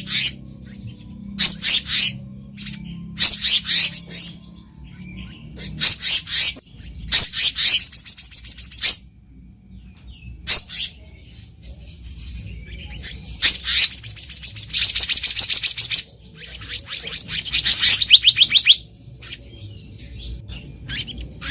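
Black-naped monarch calling: short bursts of rapid, high notes repeated every second or two, with longer runs of fast notes lasting a couple of seconds around the middle and near the end.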